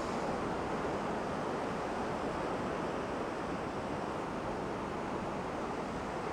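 Lake surf washing steadily onto a beach in a strong wind, a continuous even rush with no single sound standing out.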